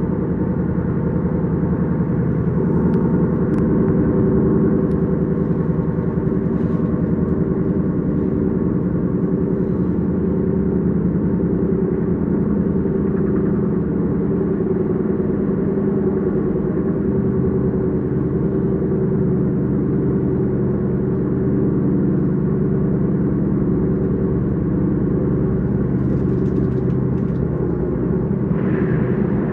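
S-Bahn train running at a steady speed: a continuous rumble with steady humming tones.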